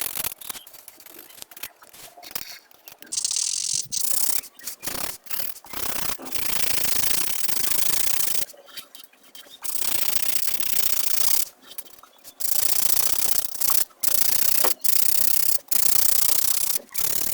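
Coloring strokes on paper: a pencil or marker rubbing back and forth in runs of strokes, some short and some lasting a couple of seconds, with brief pauses between runs.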